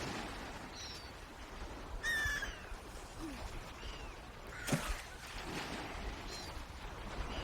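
Birds calling: short high chirps every second or two, and one brief fuller call about two seconds in, with a single knock a little before five seconds.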